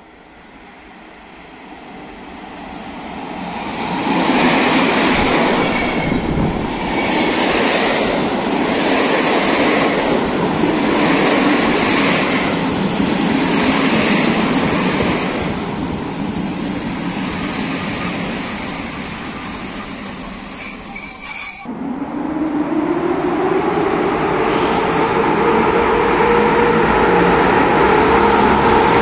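A passenger train approaches and passes at speed, its wheels and coaches rumbling loudly with a rhythmic beat as each coach goes by. The sound cuts off suddenly. Then a train rumbles along a covered platform with a steady tone that rises in pitch and then levels off.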